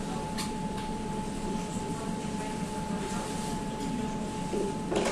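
Steady running hum inside an electric river tram under way, with a constant high whine. There is a short knock about half a second in and a louder one at the end.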